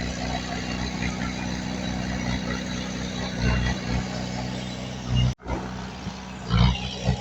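Diesel engine of heavy earthmoving machinery running steadily, with a few low thumps. The sound cuts out abruptly for a split second just past halfway.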